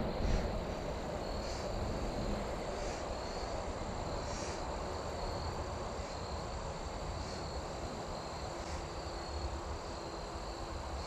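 Outdoor creekside ambience: a steady low rushing of flowing water and wind. Over it, insects give a thin high trill with a chirp repeating about every one and a half seconds.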